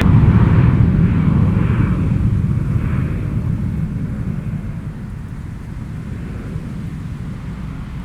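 Jet airliner's engines: a loud low roar that sets in suddenly and fades slowly over several seconds, with a higher whine dying away in the first few seconds.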